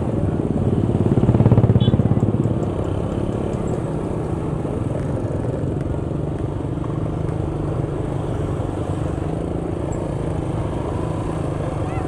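Motor vehicle engine running steadily on the road, swelling louder briefly about a second and a half in.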